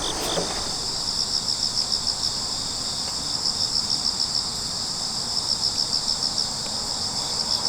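Crickets chirping in a chorus: rapid, evenly pulsed chirps, several a second, over a steady high trill. A second, lower-pitched chirping voice drops out about half a second in.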